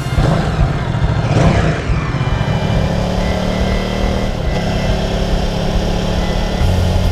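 Motorcycle engine accelerating, its pitch shifting in the first couple of seconds, then running at a steady speed.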